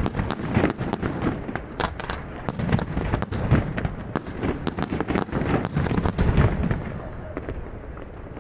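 Pyrotechnic fireworks display: a rapid, dense barrage of shell bursts and crackling bangs, easing off a little near the end.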